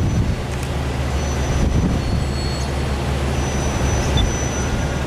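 Diesel engine of a heavy-haul truck pulling an oversize load, a steady low rumble.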